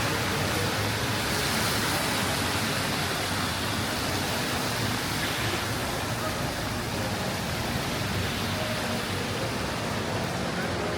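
Steady hiss of rain on a wet city street, even throughout with no distinct events.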